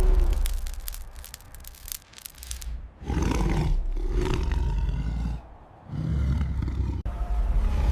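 Big cat roaring and snarling in several long, loud bursts over a heavy low rumble, with a patch of crackling clicks between the first and second. The last burst cuts off suddenly.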